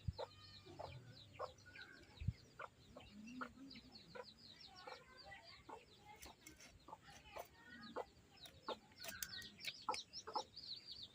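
Domestic chickens, faint: many quick high falling chirps running on, with a few low clucks and scattered light knocks.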